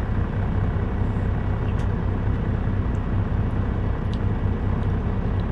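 Semi truck's diesel engine idling: a steady low rumble inside the cab, with a few faint ticks.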